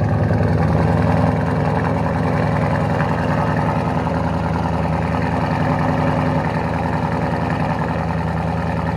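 2024 Ford Mustang GT's 5.0 L Coyote V8 idling steadily through a Roush H-pipe and straight pipes with the mufflers deleted.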